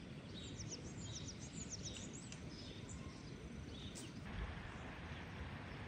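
Small birds chirping in a quick run of short falling notes during the first couple of seconds, with a few more calls later, over a steady low outdoor rumble.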